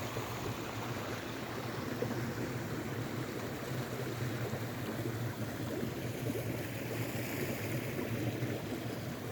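Small stream running steadily over its bed, a continuous rushing and gurgling of water.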